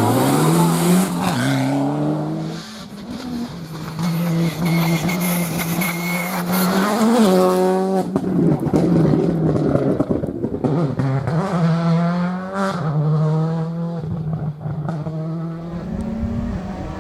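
Rally car engine revving hard through the gears, its pitch climbing and dropping in steps at each shift and lift, with a quick steep rev about seven seconds in.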